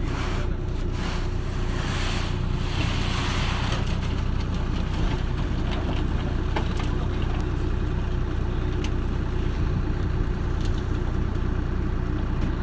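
An engine running steadily at idle with a low, even hum. A short rush of hiss passes over it about two seconds in.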